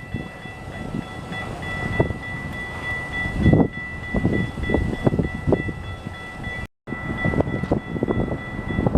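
A train running past, with irregular low rumbling and a faint steady high tone throughout. The sound cuts out completely for a moment about two-thirds of the way through.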